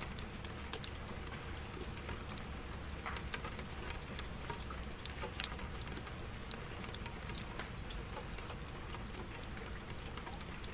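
Steady rain falling on a surface, with scattered individual drops ticking sharply, one louder drop about five and a half seconds in.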